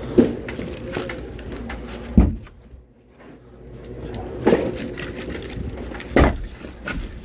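Four dull knocks, about one every two seconds, over a low steady rumble.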